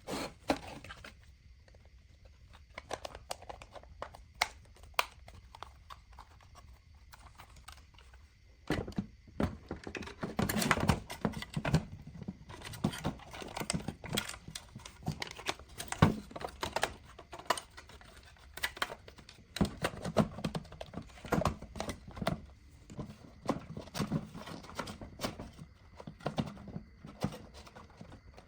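Irregular clicks, taps and knocks of hand tools and small parts being handled on a workbench, with stretches of rubbing or scraping. The clicks come thickest about nine to twelve seconds in and again in the second half.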